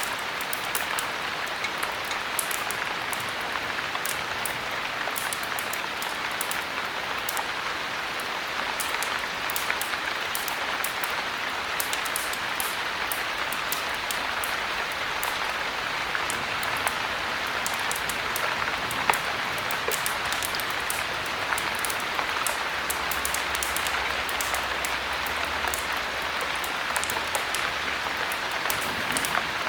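Steady heavy rain, an even hiss, with frequent sharp high ticks and crackles scattered through it and one louder click about nineteen seconds in.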